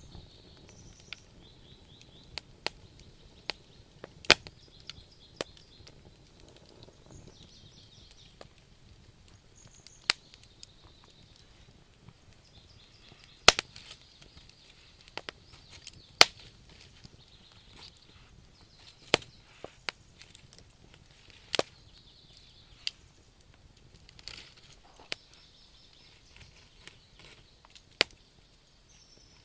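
Wood fire crackling, with sharp pops and snaps of burning logs at irregular intervals, several of them much louder than the rest. Faint high chirping sounds come and go in the background.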